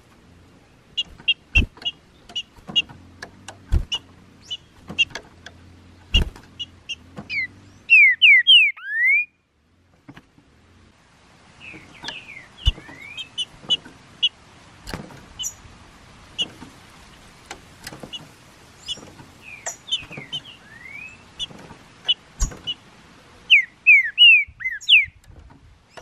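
Green-winged saltators (trinca-ferro) singing: many short sharp chirps, broken by loud slurred whistled song phrases about eight seconds in, a few more in the middle, and a loud run near the end. A few sharp clicks in between.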